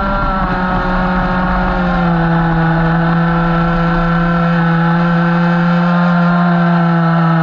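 Radio-controlled model boat's motor running at steady high revs, a loud pitched drone that eases slightly lower about two seconds in and then holds.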